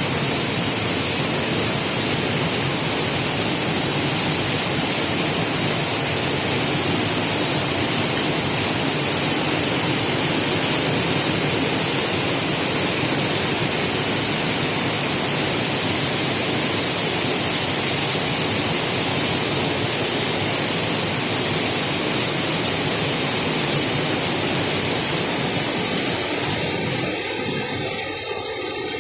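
Heavy rain pouring down, a dense steady hiss of falling water. Near the end it thins and eases slightly.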